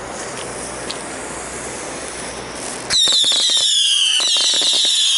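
Whistling fireworks lit close by: a steady hiss, then about three seconds in several go off at once in a loud chorus of high shrieking whistles that slowly fall in pitch, over sharp crackling.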